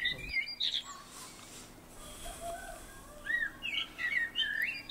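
Small birds chirping: quick, short calls in busy clusters, one in the first second and another starting about three seconds in.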